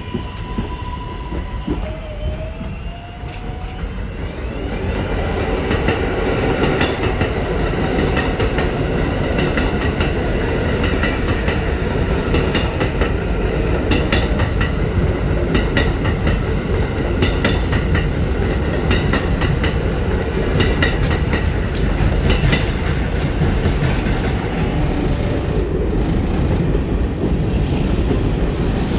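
R188 subway train on the 7 line running past with a steady rumble and steel wheels clattering over rail joints, building up over the first few seconds and easing off near the end.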